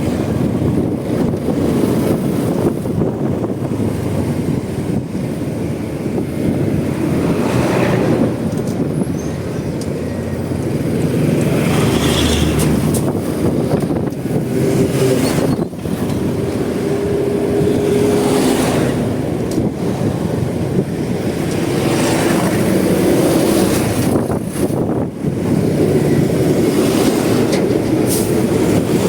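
Honda Supra X 125's single-cylinder four-stroke engine running on the move, under wind rush over the microphone. Other vehicles swish past several times.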